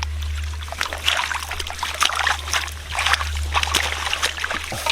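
Irregular splashing and sloshing in shallow rice-field water, over a steady low hum.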